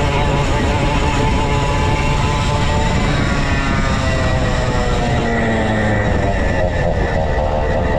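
Vintage go-kart's 135cc Sudam engine running hard at high revs, its pitch falling through the middle as the kart slows, then holding at lower revs.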